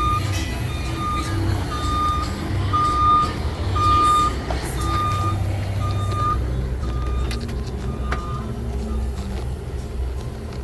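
Backup alarm beeping at a steady pitch about once a second, stopping about 8 seconds in, over a heavy diesel engine running.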